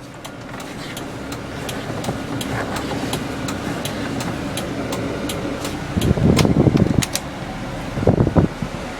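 1996 Toyota Kijang's 7K 1.8-litre inline-four gasoline engine idling steadily with a light ticking, swelling louder briefly twice, about six and eight seconds in.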